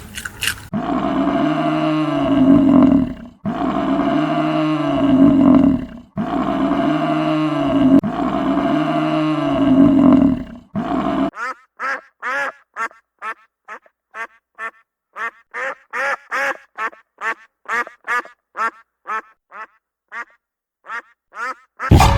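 Animal calls: four long, identical pitched calls, each about three seconds. They are followed, about eleven seconds in, by a rapid run of short calls at about two a second.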